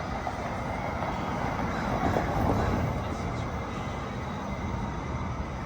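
Steady outdoor city street noise, mostly a low rumble of passing traffic.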